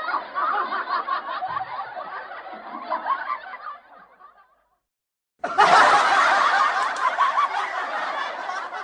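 Laughter sound effects: a laugh track that fades out about four seconds in, then after a second of silence a louder burst of laughter starts abruptly.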